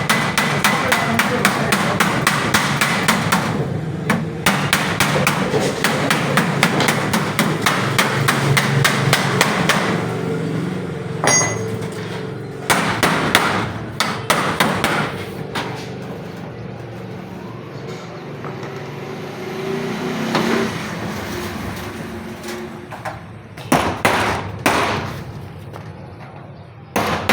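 Hammer blows on the sheet iron of a trunk box under repair. The first ten seconds or so are rapid and even, several blows a second; after that come scattered single blows.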